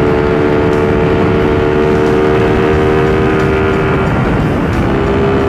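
Suzuki Raider R150's single-cylinder four-stroke engine running at a steady cruising pitch under way, with wind rush on the microphone. About four seconds in, the engine note breaks briefly, then settles again a little lower.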